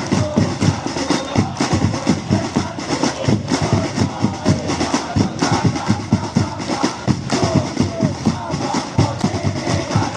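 Football supporters' section drumming, a rapid steady beat, with voices chanting over it.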